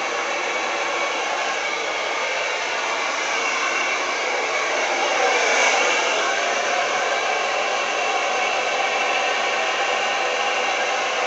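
Hand-held hair dryer blowing steadily, pushing wet acrylic pour paint across a canvas in a Dutch pour. It swells briefly a little past the middle.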